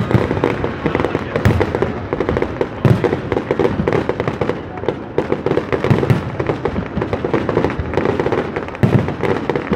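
Fireworks going off in a dense, continuous run of crackling pops, with louder booms every second or two as shells burst.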